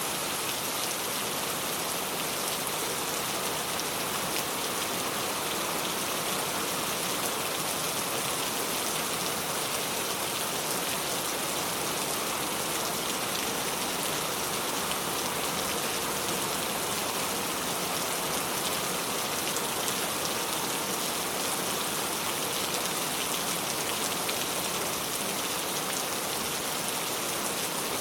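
Steady rain falling: an even hiss of rain with a dense patter of individual drops, unchanging throughout.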